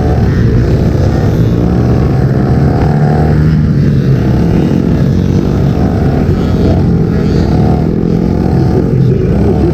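50cc dirt bike engines running hard in a motocross race, loud and continuous, their pitch wavering up and down.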